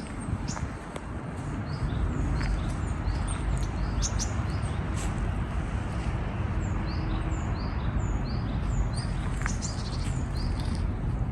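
Small birds chirping over and over in short, quick falling notes, over a steady low rumble, with a few sharp snaps now and then.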